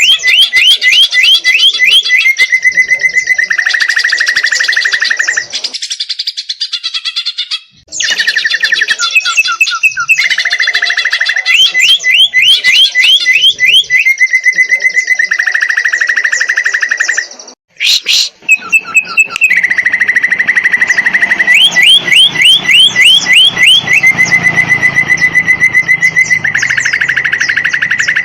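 Cucak ijo (green leafbird) singing loudly in repeated phrases, a fast steady trill alternating with quick runs of rising chirps. The song drops out briefly twice, about 8 and 18 seconds in.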